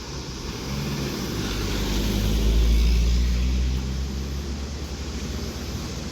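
A road vehicle's engine passing close by: a low engine note swells from about a second in, is loudest between two and four seconds, then drops back to steady road noise.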